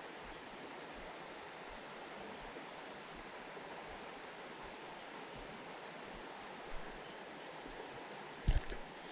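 Steady outdoor ambience: a continuous high insect trill over an even hiss of flowing creek water, with a couple of soft knocks near the end.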